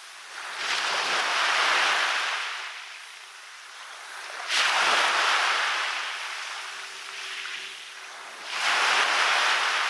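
Small waves breaking on a beach and washing up the shore, three times, about every four seconds. Each rush of surf swells and then fades; the middle one breaks most abruptly.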